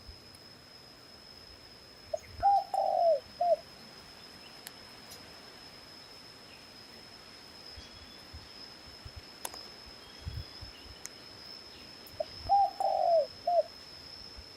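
A dove cooing: two short phrases about ten seconds apart, each a run of a few low notes.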